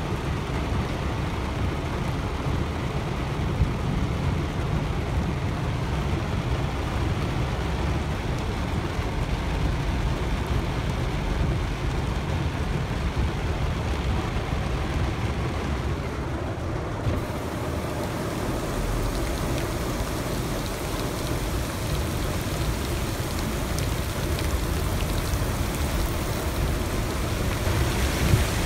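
Heavy rain falling on a car's roof and windshield, heard from inside the cabin over the car's low, steady road rumble. The rain hiss turns sharper about two-thirds of the way through.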